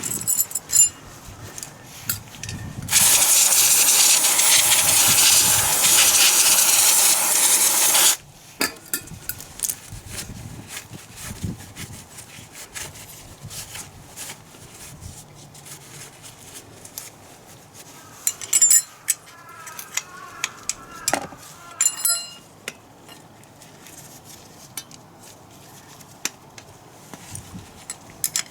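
Metal tools clinking and clicking during motorcycle repair work, with a loud steady rushing noise lasting about five seconds a few seconds in.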